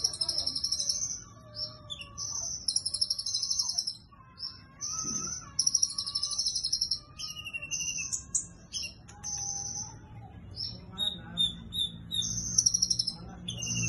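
A kolibri ninja sunbird singing: rapid, buzzy, very high trilled phrases repeated with short pauses, a song its keeper likens to a cililin's.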